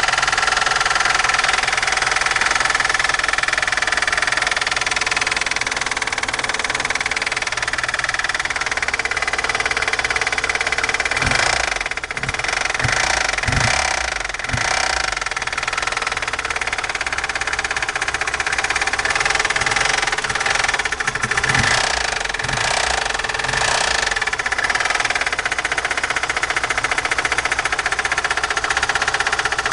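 VAZ-2109 (Lada Samara) four-cylinder engine running with a strong, rapid knock from inside the engine, of unknown cause. The engine note surges briefly a few times partway through.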